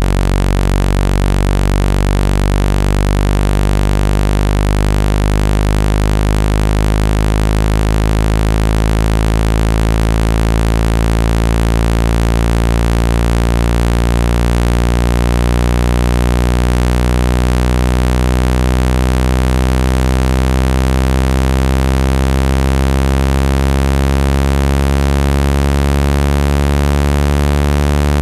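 Synthetic speaker-cleaning tone: a loud, steady low buzz with many overtones, its pitch drifting slowly, played through a phone speaker to shake dust out of the grille.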